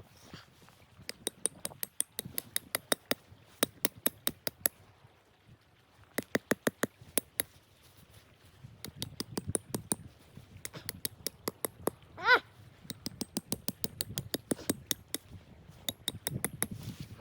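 Bursts of rapid sharp clicks and crunches, several a second, in groups. About twelve seconds in comes one short whine from a dog, rising and falling in pitch, the loudest sound here.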